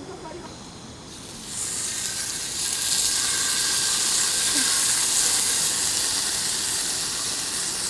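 Food sizzling as it fries in a hot pan, a steady hiss that starts about a second in and grows louder.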